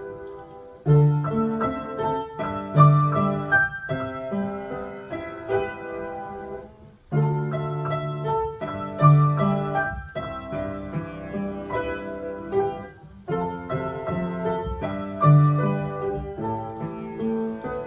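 Piano playing a slow new-age piece: a melody over low held bass notes, in phrases that start afresh about every six seconds.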